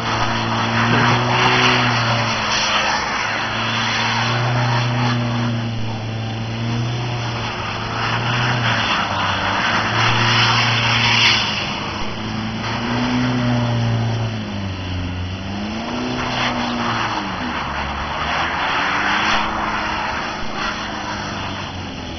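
Audi A4 1.9 TDI quattro's four-cylinder turbodiesel revving and held at high revs while the car spins and slides on snow, with a hiss of tyres churning the snow. In the second half the revs dip and climb again several times.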